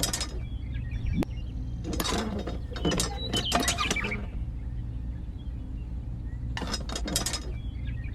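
Light clinking and rattling of small hard parts in three spells, the longest lasting about two seconds, over a steady low hum.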